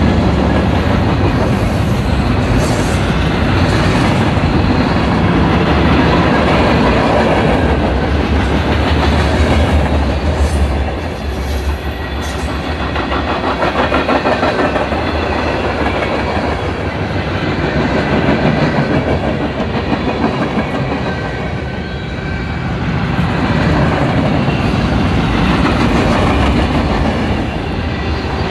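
Norfolk Southern mixed freight train rolling past close by, with tank cars, covered hoppers and autoracks going by. Steel wheels rumble steadily on the rail and clack over the rail joints, and the sound swells and eases slightly as the cars pass.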